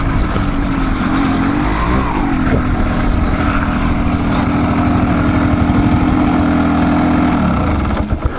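Dirt-bike engine running on the trail, its note rising and falling with the throttle for the first couple of seconds, then holding steady for about five seconds before dropping off near the end.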